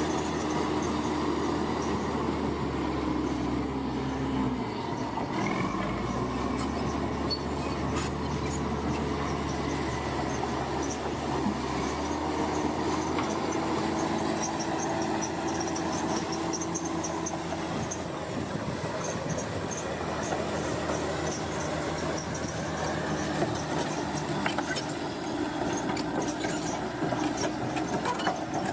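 Bulldozer's diesel engine running steadily, its note shifting about five seconds in, with the steel tracks squealing and clanking as it works.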